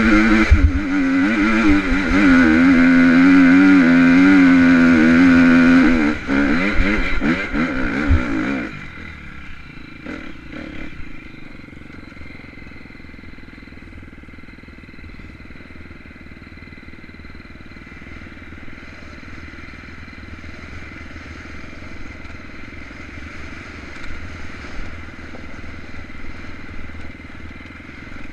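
Dirt bike engine held at high revs up a steep hill climb, its pitch wavering as the throttle works. It backs off after about six seconds and by about nine seconds in drops to a much quieter low running as the bike rolls back down.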